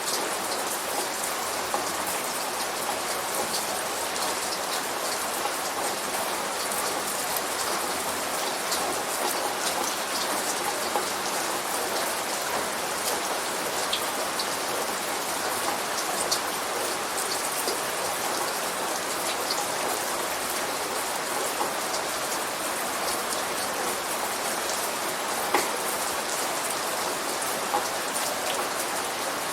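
Light rain falling steadily: an even hiss with scattered sharp drop ticks, one louder tick about 25 seconds in. No thunder.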